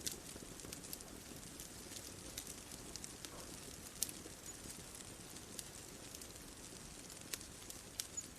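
Wood fire crackling: irregular sharp pops and snaps over a soft steady hiss, with a few louder pops about four seconds in and near the end.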